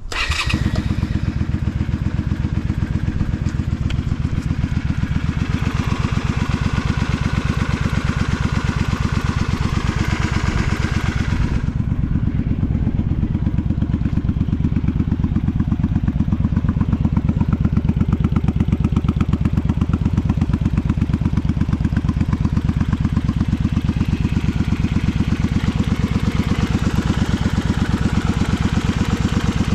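Honda V-Twin Magna 250's V-twin engine firing up and then idling steadily with a rapid, even pulse through drag pipes, running without abnormal engine noise.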